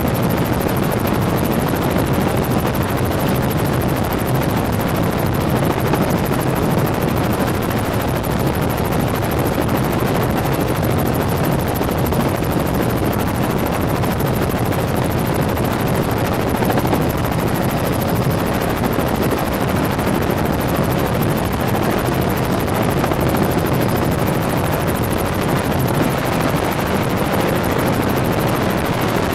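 Helicopter in flight heard from on board: a steady, loud drone of turbine engine and rotor noise that does not change.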